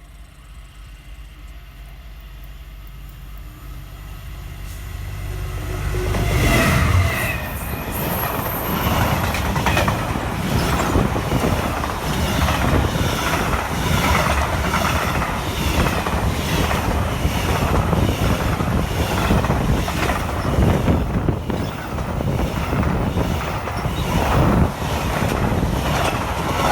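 Diesel-hauled freight train passing at close range. The locomotive's low engine rumble builds as it approaches and turns sharply louder about six seconds in. After that the wagons' wheels clatter steadily over the rails.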